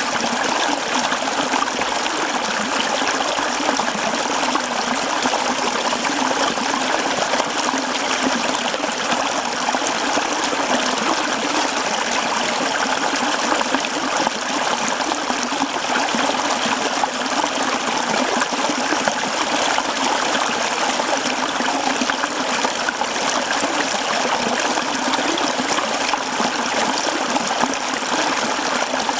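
Mountain stream flowing and babbling over rocks, a steady rush of water.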